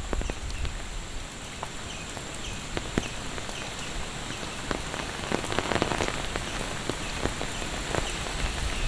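Steady monsoon rain falling, with many single drops ticking sharply close by.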